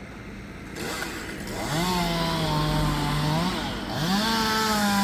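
Chainsaw cutting up a tree, revved to full throttle twice: a steady high engine note held for about two seconds, a brief dip, then a second, slightly higher run that carries on.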